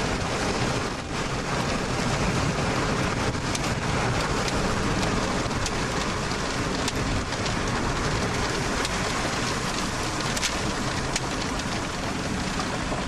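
Rain falling steadily: a dense, even hiss with scattered sharp taps of drops striking.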